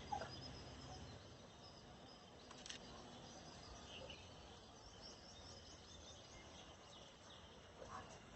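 Near silence outdoors, with faint, scattered high chirps of small birds.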